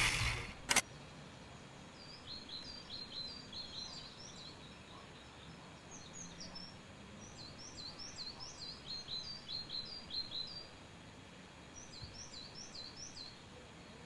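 Small songbird chirping: quick bursts of several short, high notes, repeated every few seconds over a faint outdoor hiss. A single sharp click comes just under a second in.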